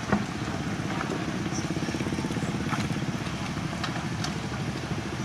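Heavy-equipment diesel engine running steadily with a fast low throb, and one sharp knock just after the start.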